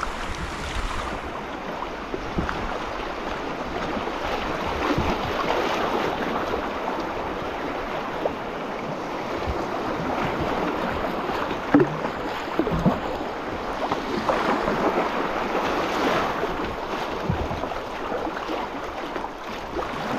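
River water rushing and splashing around a kayak in a shallow rocky stretch, with a couple of short knocks about twelve seconds in.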